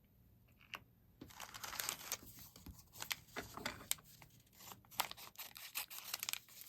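Plastic packaging crinkling and tearing as a Mini Brands miniature is unwrapped by hand, starting about a second in, with many small sharp crackles and clicks.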